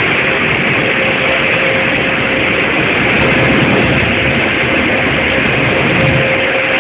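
Loud steady machine noise: a constant rushing with a steady mid-pitched hum running through it.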